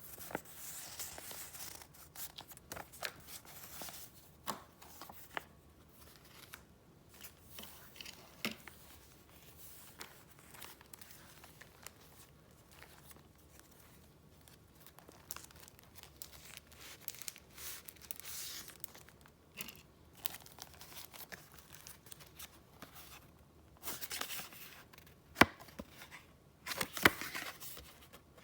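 Paper and wrapping being handled up close: sheets rustling, crinkling and sliding against each other in bursts, with a few sharp taps, the loudest near the end.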